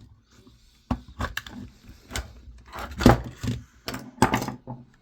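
Irregular clicks and knocks of plastic camcorder housing and parts being handled and pried during disassembly, with a few louder knocks about a second in, around three seconds and near four seconds.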